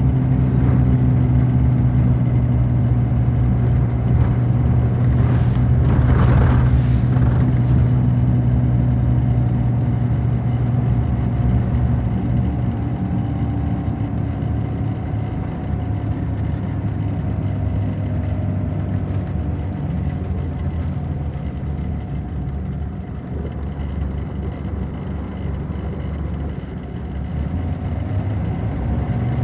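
Scania K94 bus's DC9 five-cylinder diesel running under way, a steady engine drone that eases off about a third of the way through and picks up strongly again near the end. A short rushing noise passes around 6 s in.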